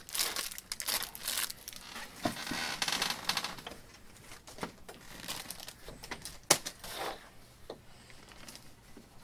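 Plastic packaging being handled and crinkled, dense for the first few seconds and then in sparser rustles, with a sharp click about six and a half seconds in.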